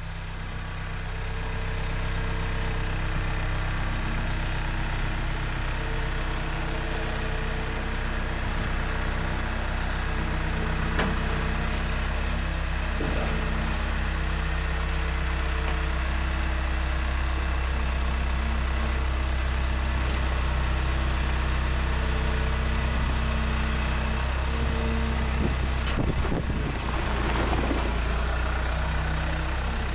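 A vehicle engine idling steadily, growing a little louder over the first two seconds and then holding an even pitch.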